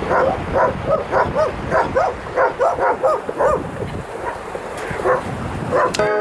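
A small dog yipping and barking in a quick run of short, high calls, about two a second, then pausing and giving a few more near the end.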